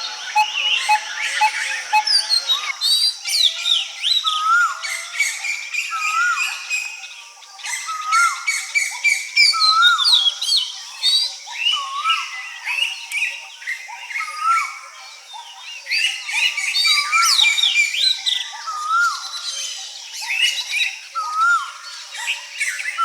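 A dense chorus of several birds singing and calling at once: a short rising-and-falling whistled note repeats about once a second, under many overlapping high chirps and trills.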